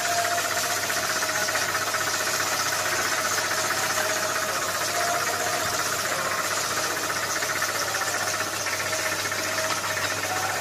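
Electric motor of a raffia-string winding machine running steadily, an even whirring over a low hum.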